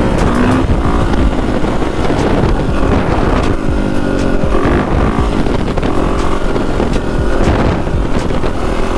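Dirt bike engine riding under throttle, its pitch rising and falling as the rider works the throttle and clutch, with wind rumbling on the helmet microphone.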